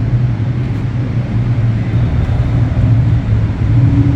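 Steady low drone with a rushing noise over it on a container ship's bridge in a gale, the wind moaning around the wheelhouse over the hum of the ship.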